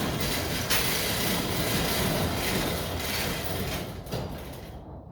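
Overhead garage door rolling along its steel tracks with a steady rattle, which dies away about four seconds in as the door comes to its stop.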